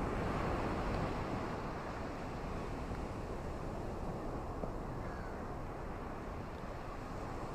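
Ocean surf washing on a shore with wind, a steady low rushing that is a little louder in the first second or so, then even.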